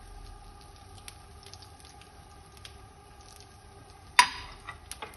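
Egg omelette frying in oil in a pan, sizzling quietly with scattered small crackles, and one loud, sharp pop about four seconds in.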